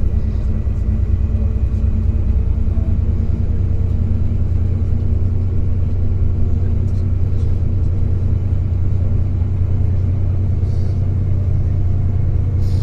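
Steady low engine drone and road rumble heard from inside a moving bus.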